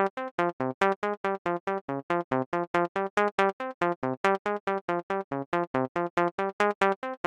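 u-he Triple Cheese software synthesizer playing a fast run of short, plucked, staccato notes, about six a second, in a repeating melodic pattern.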